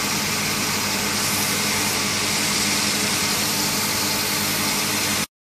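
Mazak VTC-30C vertical machining center's spindle running steadily at about 4,500 RPM: an even hiss over a low, steady hum. The sound cuts off suddenly near the end.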